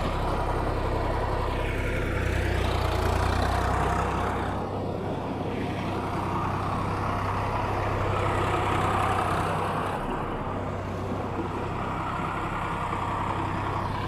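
John Deere tractor's diesel engine running steadily, its low note shifting about four and a half seconds in and again near ten seconds.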